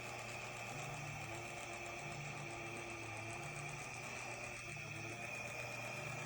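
Märklin H0-scale class 06 model steam locomotive running, with a steady high whine and a slow, regular low pulsing underneath.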